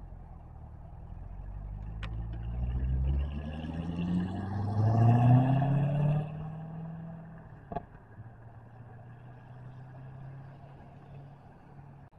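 C6 Chevrolet Corvette's V8 accelerating away, its engine pitch climbing to the loudest point about five to six seconds in, then settling lower and fading as the car drives off. Two short sharp clicks, about two seconds in and near eight seconds.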